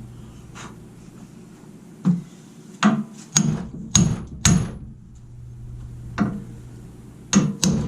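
A hammer striking the steel parts of a seized arbor press, about eight irregularly spaced blows, some leaving a brief metallic ring, while a stuck part is knocked loose.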